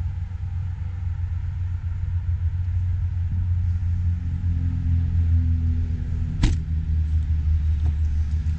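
Low, steady rumble of a 6.6 L Duramax V8 turbo-diesel idling, with a single sharp knock about six and a half seconds in.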